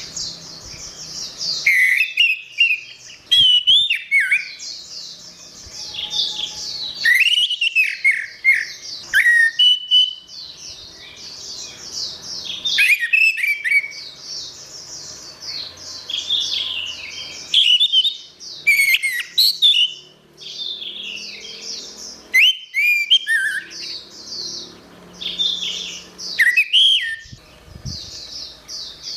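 Orange-headed thrush singing: loud, varied phrases of slurred whistles and rapid high twittering, a new phrase starting every four to five seconds with softer chatter between them.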